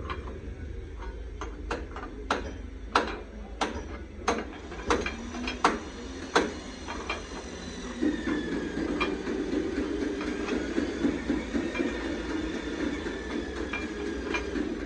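Sharp metallic knocks, about ten blows a little over half a second apart, like hammering on metal, then a steady machine running from about halfway through, with a faint whine that slowly drops in pitch.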